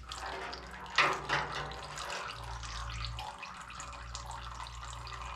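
Fuel-diluted engine oil pouring steadily from the Oliver 66 diesel's sump drain into a drain pan, with one knock about a second in.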